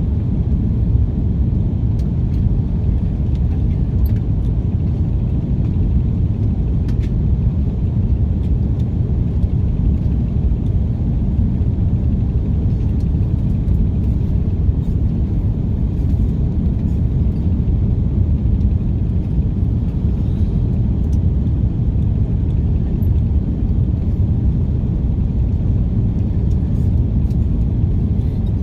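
Steady low rumble of an Airbus A330 airliner's engine and air noise heard from inside the passenger cabin, even throughout, with a few faint ticks.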